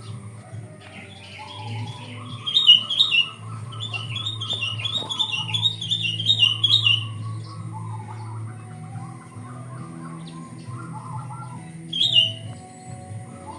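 Sooty-headed bulbul (kutilang) singing: quick runs of chirping phrases through the first half, with a lower warbling line beneath, and one short loud chirping phrase near the end, over a steady low hum.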